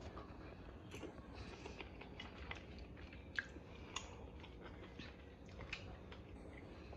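A man faintly chewing a mouthful of penne pasta, with scattered soft mouth clicks and smacks, two of them a little louder in the middle.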